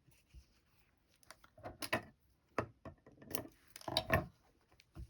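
Scattered light clicks and rustles of hand-sewing: needle, thread and fabric being worked and small sewing supplies handled, with a few louder clicks in the middle and a cluster about four seconds in.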